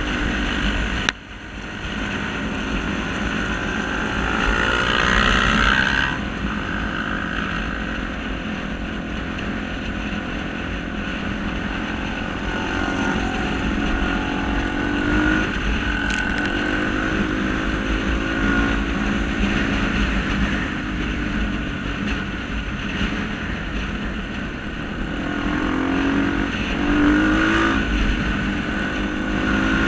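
Single-cylinder engines of Honda Tornado 250 trail motorcycles running and revving, rising and falling in pitch. There is a sudden break about a second in.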